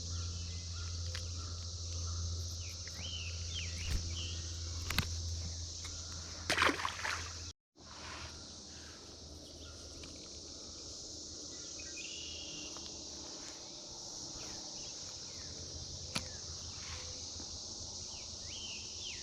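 A steady, high chorus of Brood X periodical cicadas droning, with birds chirping over it. There are a few knocks in the first seven seconds and a brief dropout about seven seconds in.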